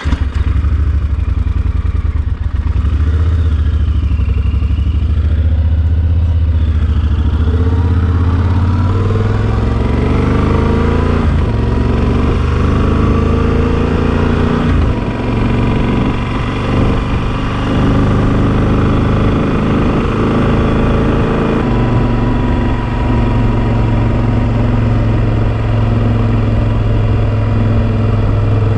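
Yamaha Super Ténéré XT1200's parallel-twin engine running while riding. Its pitch climbs and drops repeatedly through the middle, as with acceleration and gear changes, then holds steadier toward the end.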